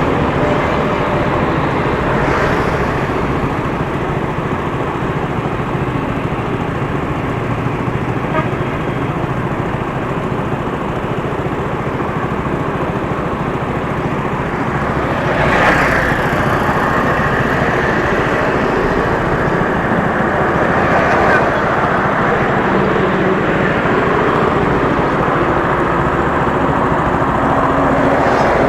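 Steady road and traffic noise heard from a moving motorcycle, with a brief louder sound about halfway through.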